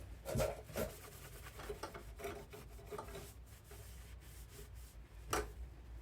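Rubbing and scraping handling noises, with a knock shortly after the start and another near the end.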